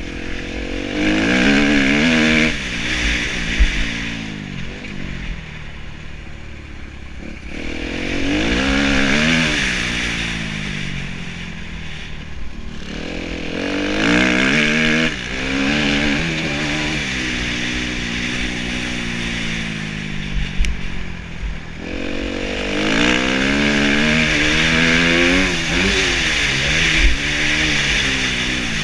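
2013 Kawasaki KX250F four-stroke single-cylinder motocross engine riding hard, its pitch climbing and dropping again and again as the throttle is opened and shut through the gears, with four louder surges of acceleration.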